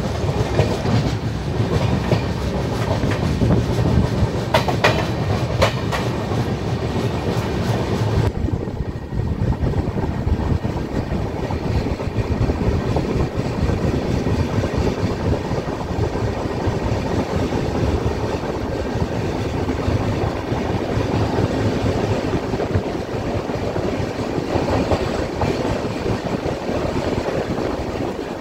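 Express passenger train rolling slowly, heard from aboard: steady rumble of the coaches with wheels clacking over rail joints. The hiss above the rumble dulls abruptly about eight seconds in.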